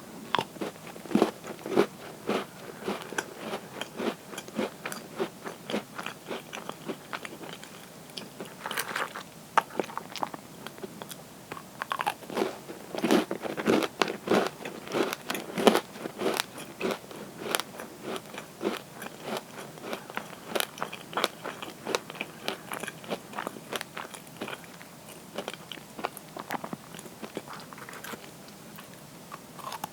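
Close-up crunching and chewing of crisp butter cookies: a bite, then a run of rapid, irregular crunches as the cookie is chewed, with heavier bursts of crunching several times.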